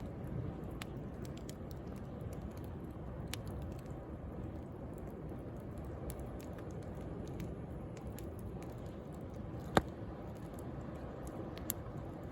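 Wood bonfire crackling, with scattered small pops and one sharp loud pop about ten seconds in, over the steady low rush of sea waves.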